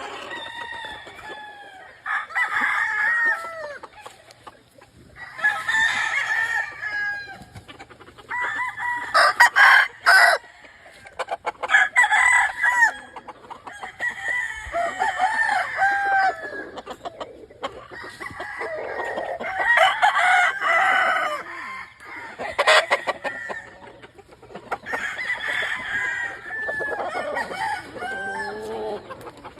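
Several gamefowl roosters crowing one after another and over each other, a new crow every couple of seconds. A few sharp clattering sounds break in, about a third of the way through and again later.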